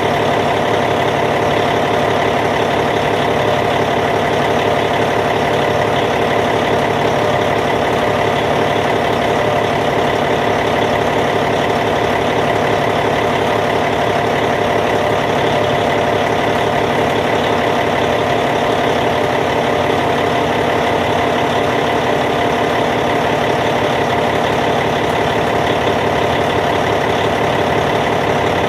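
Caterpillar C15 diesel engine of a Cat D8T bulldozer idling steadily, an even unchanging drone.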